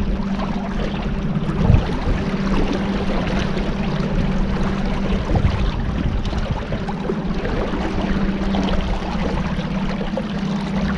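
Motorboat engine running at a steady cruise, with water rushing past the hull.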